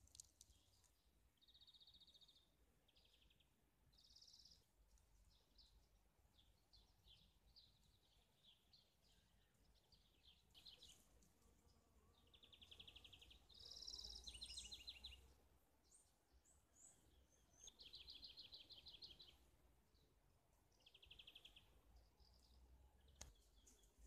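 Songbirds singing faintly: a series of short chirping phrases and rapid trills with pauses between them. A single click near the end.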